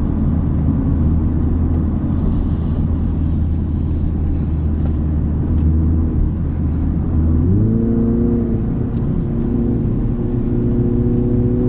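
MINI JCW Countryman's turbocharged four-cylinder engine heard inside the cabin, running steadily under load on track. About seven seconds in the engine note steps up in pitch and holds, then drops back near the end.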